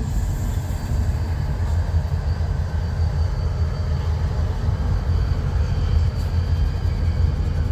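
Diesel locomotives in a rail yard giving a steady low rumble, with a faint steady high tone above it.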